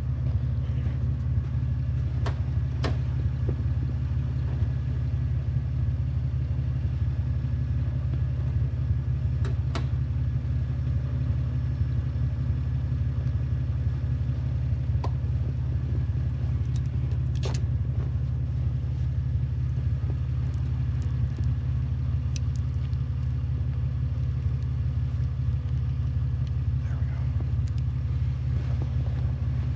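A vehicle engine idling steadily, with a few short clicks and taps over it.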